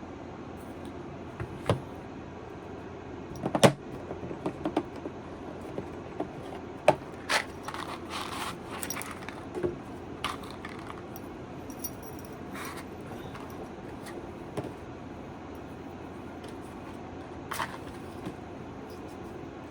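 Small hard objects being handled and set down, with scattered clicks and knocks and a stretch of rustling and clinking about seven to nine seconds in.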